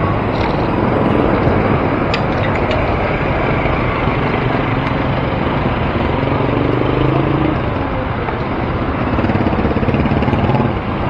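Road traffic heard from a moving bicycle: a steady rush of wind and traffic noise, with a motor vehicle's engine running close by for a few seconds in the middle.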